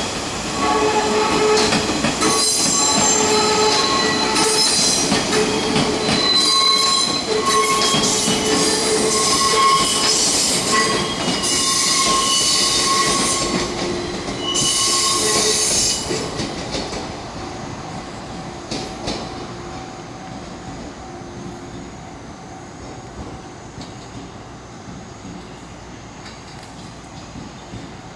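Echigo TOKImeki Railway 413 series electric train moving slowly while shunting, its wheels squealing on the curves in several high steady tones, with loud bursts of high hiss. About sixteen seconds in, the squeal dies away and only a quieter rolling rumble remains.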